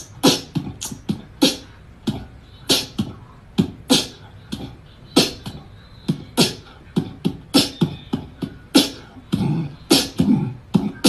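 An irregular run of short, sharp clicks or smacks, about two or three a second, some with a low thud beneath them.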